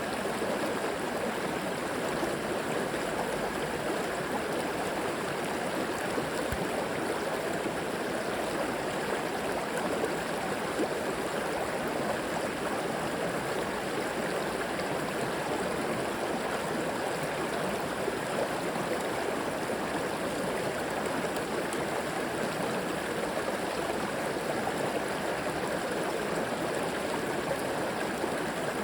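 A flowing river: steady, even rushing water with no pauses or changes.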